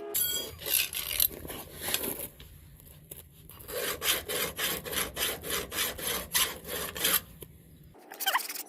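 A hand tool is worked back and forth over metal in quick repeated strokes, about three a second. The strokes pause for about a second and a half some two seconds in, then resume and stop about a second before the end.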